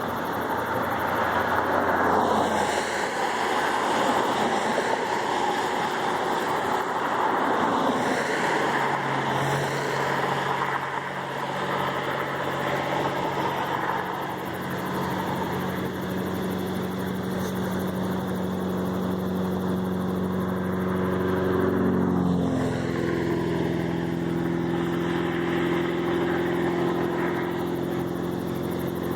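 Aircraft engines running. A broad rushing noise gives way to steady engine tones that shift in pitch about two-thirds of the way through.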